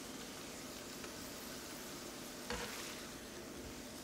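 Sliced smoked sausage and onions sizzling quietly in oil in a nonstick skillet while a spatula scrapes under them, with a light knock of the spatula about two and a half seconds in.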